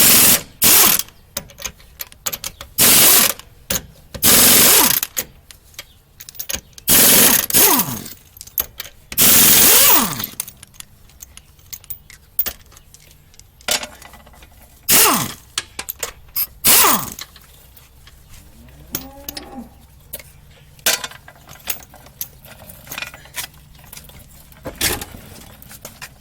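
Pneumatic impact wrench hammering the lug nuts off a car's rear wheel. It comes in repeated loud bursts, some ending in a falling whine as the tool spins down. After the first ten seconds there are a few shorter bursts and light clicks.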